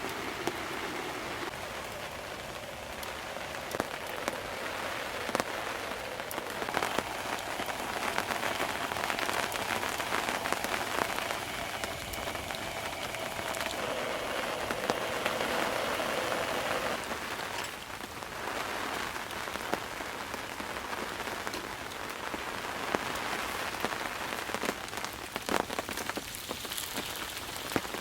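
Steady rain falling, with many separate drops striking sharply throughout.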